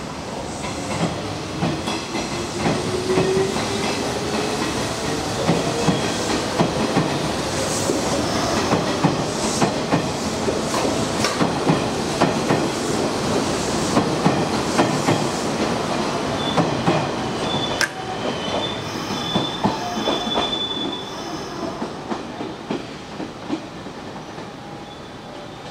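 Hanshin Railway electric train moving through the station, its motor whine rising in pitch as it picks up speed. Wheels click rapidly over the rail joints, with a high wheel squeal in the second half, and the sound fades near the end.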